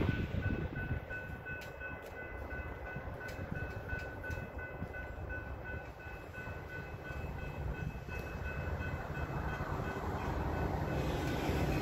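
Metra commuter train approaching, its low rumble growing louder toward the end, while grade crossing bells ring in a fast, even repeat.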